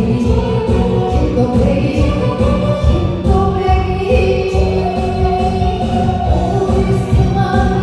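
Korean popular song: sung vocals holding long, wavering notes over a backing track with a steady bass beat.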